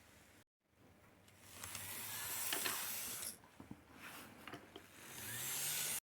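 KATO N-gauge model train powered car's small motor and gear train running with a noisy grinding whir, the abnormal running noise it developed after long storage. The whir swells twice, and its low hum rises in pitch near the end as the car speeds up.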